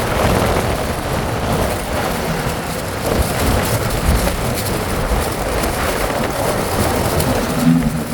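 Steady wind and road noise from a moving bike, with wind buffeting the microphone.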